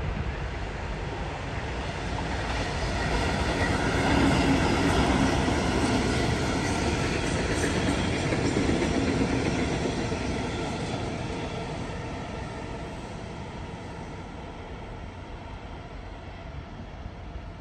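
Double-deck electric suburban train running through the station without stopping. It grows louder over the first few seconds, is loudest while it passes, with a low hum from its motors and some wheel clatter, then fades away.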